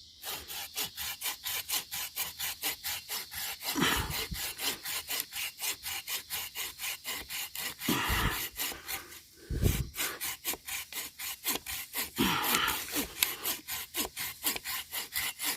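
Hand saw cutting through a green hornbeam trunk in quick back-and-forth strokes, about four a second, pausing briefly a little after the middle. A few dull thumps are heard among the strokes.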